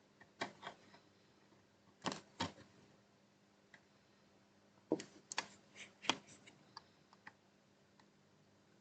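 Scattered faint clicks and taps of small tools against the circuit board and HDMI port during hand micro-soldering, in small clusters over a faint steady hum.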